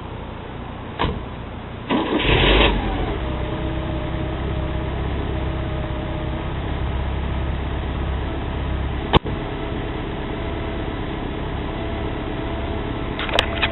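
Porsche 944's four-cylinder engine cranking briefly and catching about two seconds in, then idling steadily. It starts normally with the serpentine belt for the alternator and AC compressor removed. A sharp click about nine seconds in.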